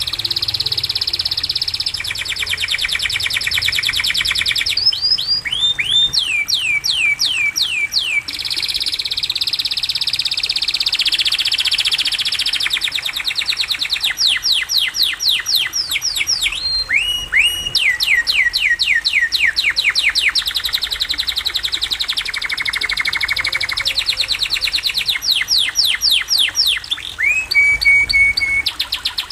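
Domestic canary singing vigorously: fast rolling trills of repeated sweeping notes, switching from one trill phrase to another every second or two.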